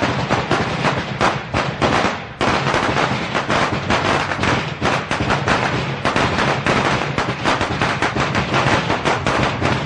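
A string of Chinese firecrackers going off: a dense, rapid crackle of sharp bangs, with a brief lull a little over two seconds in.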